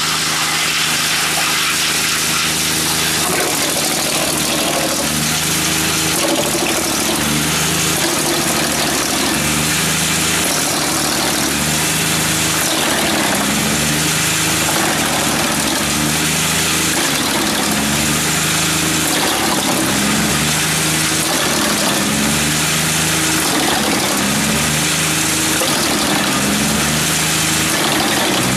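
Drum wood chipper running on its three-cylinder diesel engine: a steady, loud mechanical noise.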